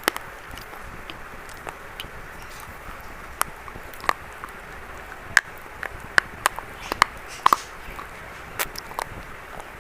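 Brittle reddish-brown 'biscuit' chalk crunching: scattered, irregular crisp cracks and snaps over a steady hiss, coming more often and louder from about halfway through.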